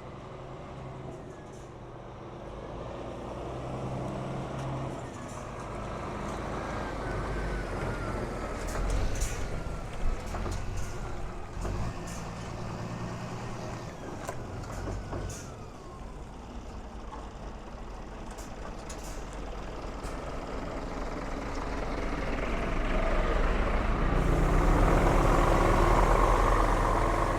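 Scania R450 tractor unit's six-cylinder diesel running, with a thin wavering whine and a few sharp clicks around the middle, then getting louder near the end.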